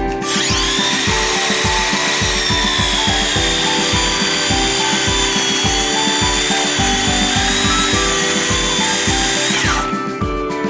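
Electric power saw cutting through a thick wooden slab: a steady high whine that starts just after the opening and stops about a second before the end. Background music with a steady beat plays throughout.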